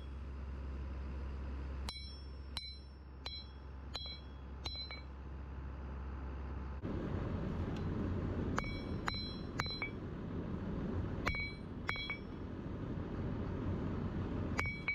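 Hammer blows on a hot Damascus billet over the anvil, each strike ringing with a clear metallic tone, coming in short runs about one to two a second with pauses between. A steady low hum runs underneath and becomes a broader rumble about seven seconds in.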